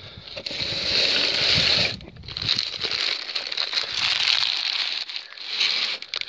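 Tape being pulled off a roll in several long, crackling strips of a second or two each, with short pauses between.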